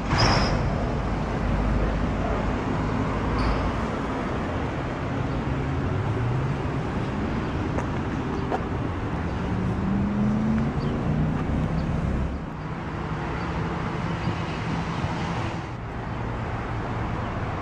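Road traffic noise, with a vehicle engine rising in pitch about five seconds in and again around ten seconds in.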